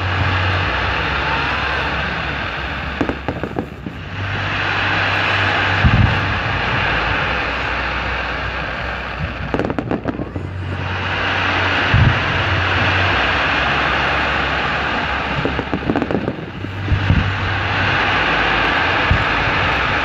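Aerial fireworks display with sharp bangs and thuds from launches and bursts every few seconds. Between the bangs, a steady hiss from burning comets and fountains swells and fades in waves about six seconds apart.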